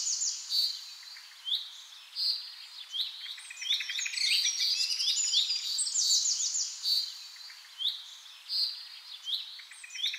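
Birds chirping: a continual run of quick, high chirps and short trills, overlapping and busiest in the middle.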